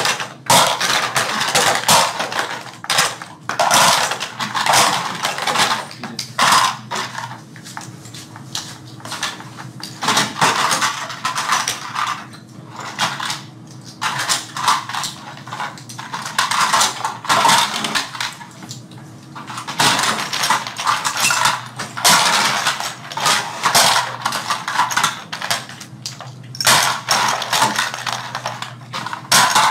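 Continuous irregular clatter and rattling of small hard toy-airplane parts being picked up, set down and fitted together by hand.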